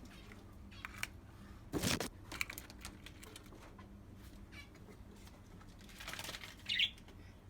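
Scattered light clicks and rustling, with a louder brief rustle about two seconds in and a short high bird chirp near the end.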